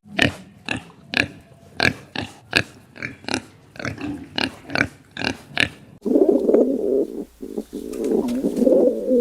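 A pig grunting in a run of short separate grunts, about three a second. About six seconds in, the sound cuts to a continuous overlapping cooing of pigeons.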